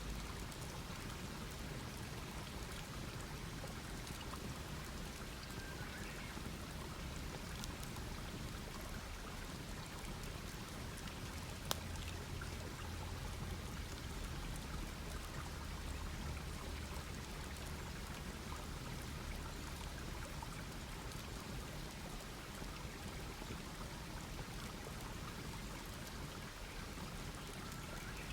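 Wood campfire crackling steadily, with a sharp pop about twelve seconds in.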